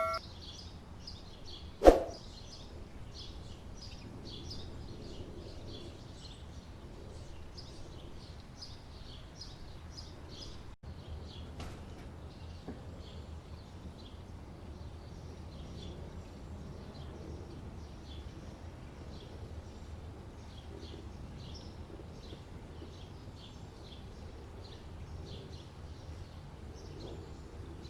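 Birds chirping: many short, high chirps run on throughout. A single sharp knock about two seconds in is the loudest sound, over a low steady hum.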